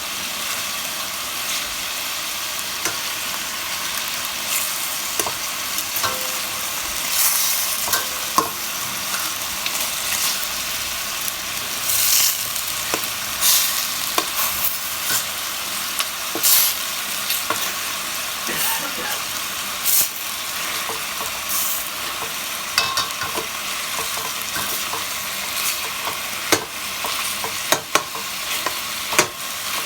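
Chicken pieces frying in oil in a pot over medium heat: a steady sizzle with scattered pops and crackles, a few louder ones now and then, as the chicken browns and gives up its fat.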